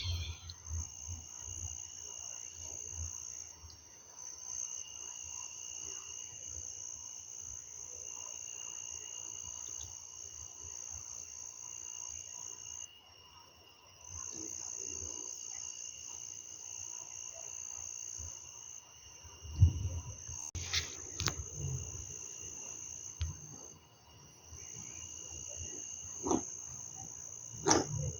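Crickets trilling steadily in a high continuous chorus that drops out briefly a few times. A few sudden loud thumps with brief low rumbling come a little past the middle, and two more near the end.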